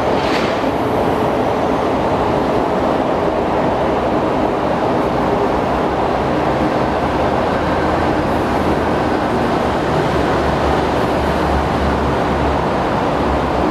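SP-1900 electric multiple unit train running through the depot: a steady rail rumble, with a deeper hum building in the second half.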